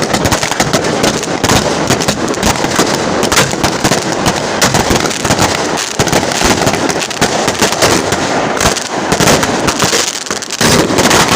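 Fireworks and firecrackers going off in a dense, continuous barrage of rapid cracks and bangs, easing slightly about ten seconds in before picking up again.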